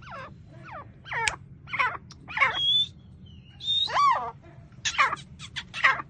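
Male teetar (francolin) calling: a run of loud, shrill notes that sweep down in pitch, several in quick succession, a pause of about a second near the middle, then more notes. A steady low hum runs underneath.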